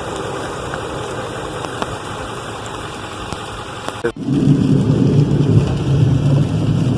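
Ford F-350 plow truck's engine running steadily. About four seconds in, the sound cuts abruptly to a louder, deeper engine rumble.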